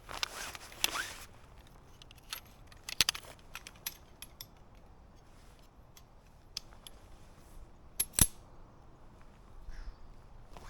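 Camp gear being handled: a short rustle at the start, then scattered small clicks and clinks, with one sharp click about eight seconds in.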